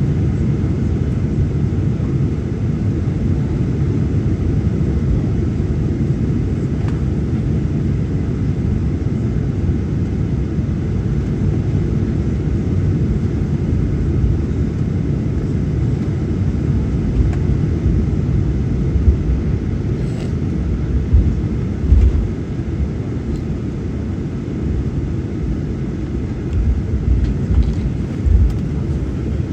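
Boeing 737-900ER cabin noise while taxiing: a steady low rumble of engines and airframe, with a few low bumps in the last third.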